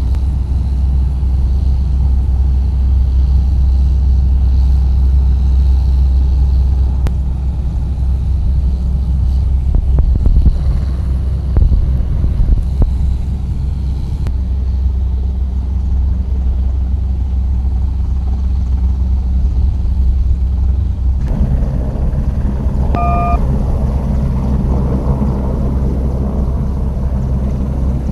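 Loud, steady low rumble of flight-deck noise aboard an aircraft carrier, with jet engine sound. The sound changes abruptly about 21 seconds in, and a short beep is heard about two seconds later.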